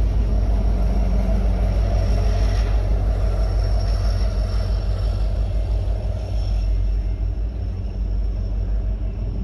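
The rear of a BNSF empty coal train passing at a grade crossing: two trailing EMD diesel locomotives (an SD70MAC and an SD70ACe) and their wheels on the rails make a steady, loud rumble. It eases a little as the train clears the crossing and moves away.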